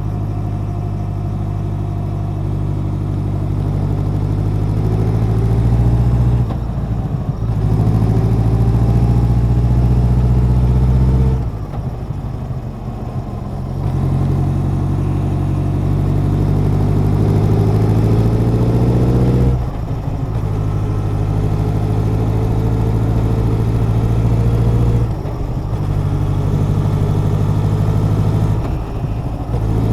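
Honda CB1100's air-cooled inline-four exhaust under way, pulling steadily with its note slowly rising in pitch. The note breaks off several times as the rider shifts or eases off, once for about two seconds near the middle.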